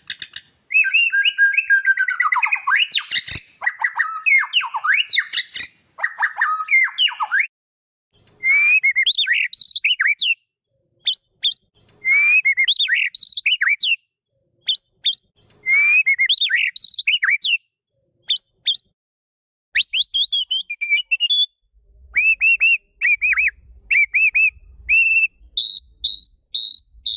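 White-rumped shama (murai batu) song: varied whistled phrases and fast sweeping notes in separate bursts, broken by dead silences. From about twenty seconds in come quick runs of short repeated notes, the last run pitched higher.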